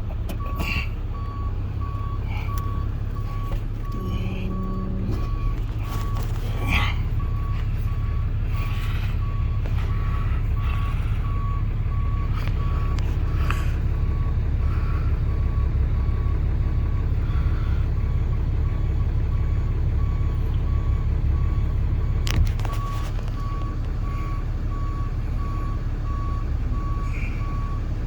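Tow truck's reversing alarm beeping steadily at one pitch, over the low rumble of the truck's engine running. A brief hum about four seconds in, and a sharp knock about 22 seconds in.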